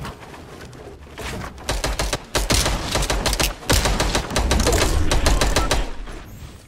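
Paintball markers firing in rapid strings of sharp clicking shots, densest through the middle, over a low rumble.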